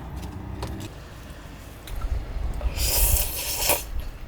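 Slurping of cold noodle soup, a long hissy slurp about three seconds in, over a low rumble of wind on the microphone.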